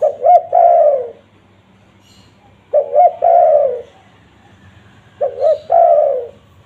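Spotted dove (tekukur) cooing: three phrases about two and a half seconds apart, each two short coos followed by a longer, falling coo.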